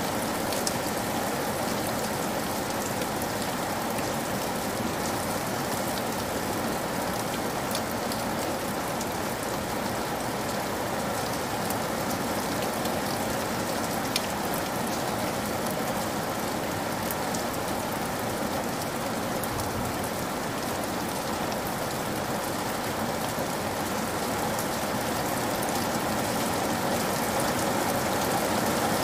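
Heavy rain falling steadily, a dense even hiss of drops with scattered sharper drop hits, growing a little louder near the end.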